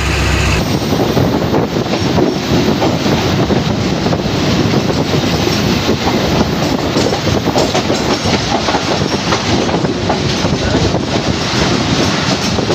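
A moving passenger train: wheels rattling over the rails and the coaches clattering in a steady, rough din, with a faint wheel squeal.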